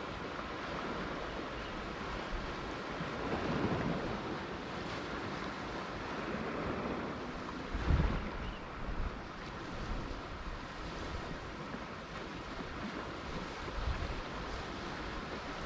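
Ocean waves washing and breaking on the shore in a steady rush, with low gusts of wind on the microphone, the strongest about eight seconds in.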